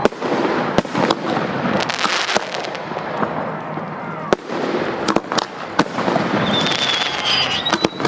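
Aerial fireworks display: a rapid, irregular series of sharp bangs and pops over continuous crackling, with a brief whistle near the end.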